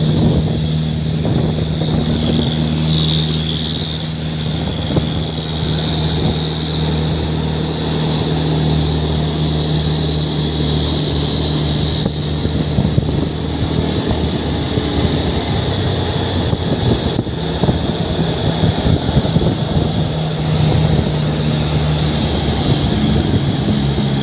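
Heavy diesel truck engine running steadily at an even pitch.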